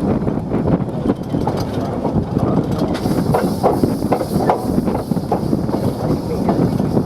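A train moving along the track, with repeated irregular clanks and knocks from its wheels and wagons over a steady rumble.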